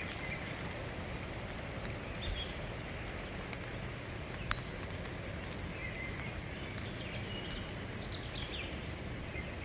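Light rain falling steadily, with a few sharp drip clicks.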